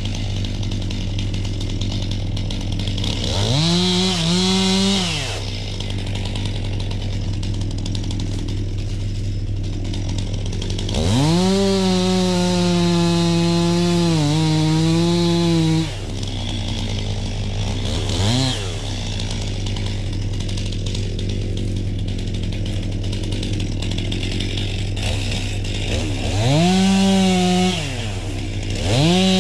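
Two-stroke chainsaw idling between throttle bursts, revved up to full speed several times. The longest burst, about 11 seconds in, is held for roughly five seconds, its pitch dipping slightly in the middle.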